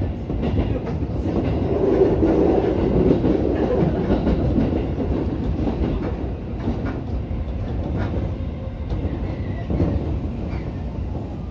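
Seibu 2000-series electric train running along the track, heard from inside the driver's cab: a steady rumble of wheels on rail, with several clacks over rail joints in the second half.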